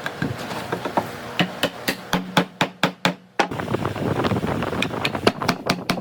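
Quick hammer taps on wood, about four or five a second, with a short break halfway through.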